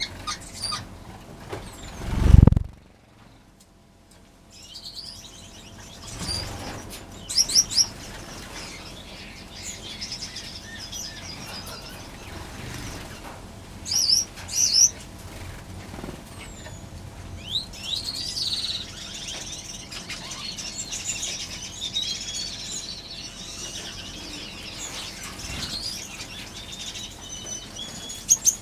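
Many small aviary finches chirping and twittering with short, high calls, the chatter growing busier in the second half. A low thump about two seconds in is the loudest sound, followed by a brief lull.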